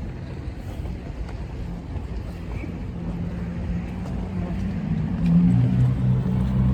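A motor vehicle's engine coming closer, a low steady hum that grows louder, strongest over the last second or so.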